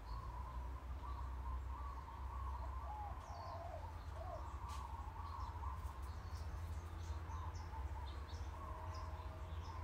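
Birds chirping and singing, many short high chirps over a steady low background hum.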